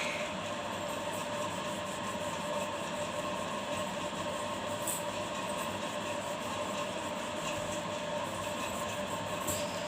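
A steady mechanical drone with a constant hum-like tone, unchanging throughout.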